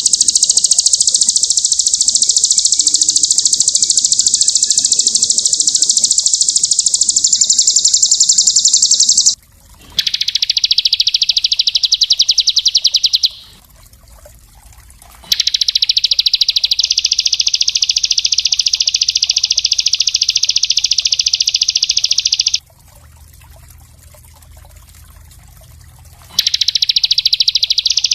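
Small songbird singing very rapid, tightly packed high trills in long unbroken bursts, the first about nine seconds long, then shorter bursts separated by brief pauses.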